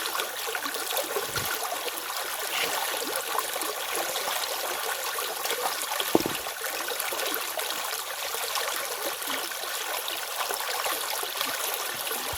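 Stream water running over a small cascade: a steady trickling, splashing flow. About six seconds in comes one brief, louder knock.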